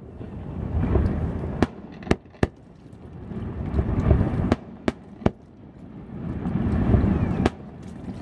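Aerial fireworks bursting at a distance: about seven sharp cracks, some in quick pairs, over low rumbling booms that swell and fade.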